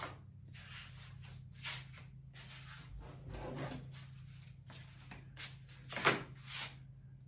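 Work on a bench: a series of short scrapes and knocks from wood and tools being handled and slid about, the loudest about six seconds in, over a steady low hum.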